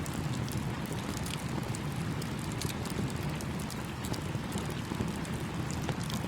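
Campfire crackling with frequent small sharp pops over the steady low rush of a flowing stream.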